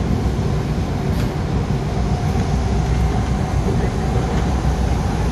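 Interior running noise of an MTR Tung Chung Line A-Train electric multiple unit under way: a steady, loud low rumble from the wheels and running gear, with a faint steady tone above it.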